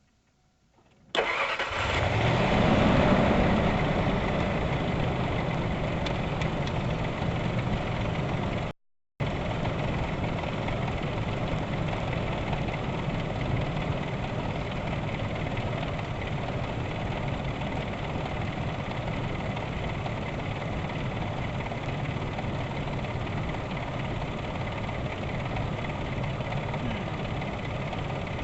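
1999 Ford Expedition V8 engine catching about a second in, flaring up briefly, then settling into a steady idle, under test for reported misfires. The sound cuts out completely for about half a second near the middle.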